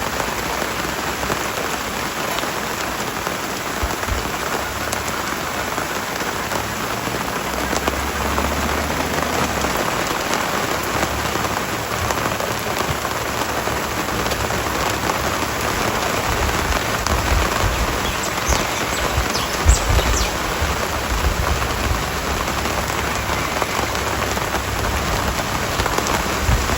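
Steady hiss of rain falling, with low rumbles now and then.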